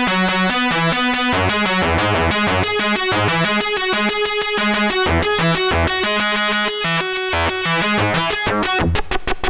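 DIY analogue synthesizer (the Ad-vantage 03M) playing a sequenced run of bright, buzzy notes over a stepping bass line. Just before the end it switches to short, fast repeated pulses, about six a second.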